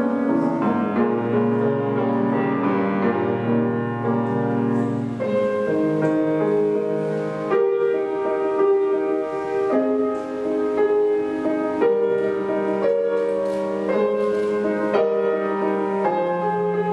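Solo piano playing a classical piece, with sustained melody notes over low chords.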